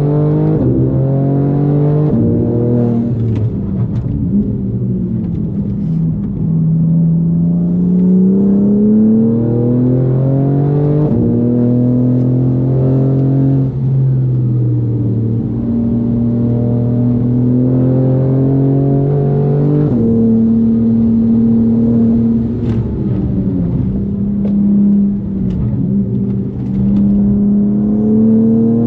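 Tuned BMW M4 G82's twin-turbo straight-six driven hard on track. The revs climb, drop sharply at gear changes and fall away under lifting off, and hold steady for several seconds in the middle.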